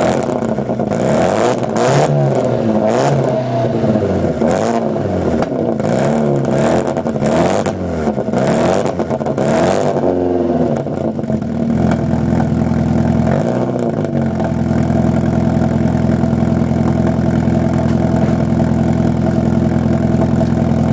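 Corsa 1.6 Sport engine through a straight-through centre section and 3-inch backbox exhaust, revved in repeated quick blips for about ten seconds, then falling back and settling to a steady idle after one small blip.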